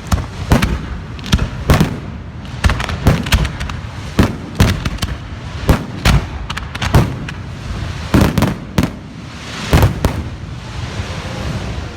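Fireworks display: shells bursting in a rapid, irregular run of loud bangs, one or two a second. Near the end the bangs stop and a hissing crackle trails off.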